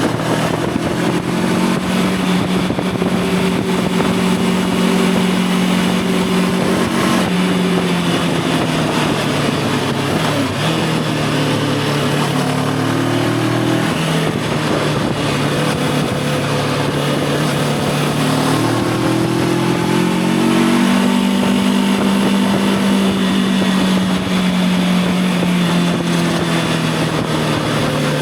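Voge 525 DSX motorcycle's parallel-twin engine running under way, with wind noise over it. The revs hold steady, dip about a quarter and a third of the way in, and climb again a couple of times before settling to a steady cruise.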